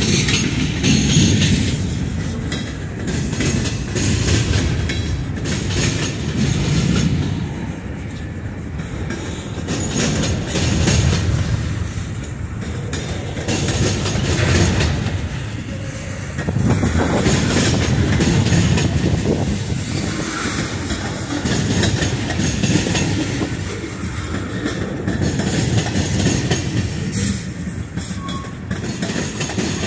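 Freight train cars rolling past at steady speed: a low rumble from covered hoppers, a centerbeam flatcar and tank cars that swells and fades as each car goes by, with the wheels clacking irregularly over the rail joints.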